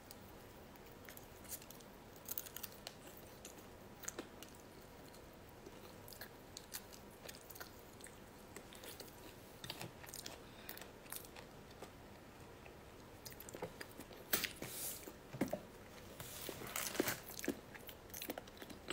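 A person chewing and biting food close to the microphone: faint scattered crunches and mouth clicks, coming more often near the end.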